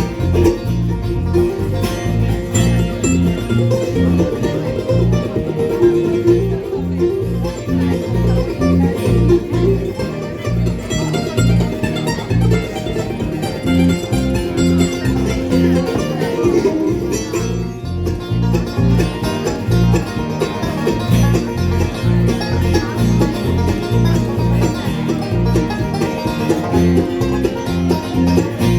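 Live band playing an instrumental break between sung verses of a song, with a steady bass beat.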